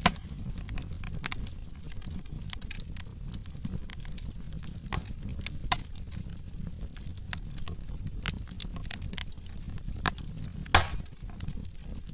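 Wood fire burning in a fireplace: logs crackling with irregular sharp snaps over a low steady rumble of the flames, with a few louder pops, the loudest near the end.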